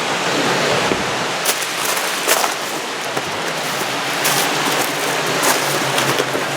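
Waterfall rushing: a steady, loud wash of falling and churning water, with a few short sharp clicks over it.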